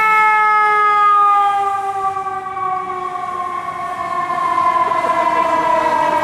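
Fire apparatus siren winding down: one long wail that falls slowly in pitch.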